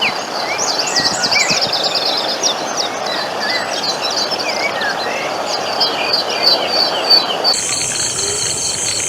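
Many small birds chirping at once, their short chirps overlapping over a steady noisy background. About seven and a half seconds in, this cuts abruptly to a steady, high, pulsing insect trill.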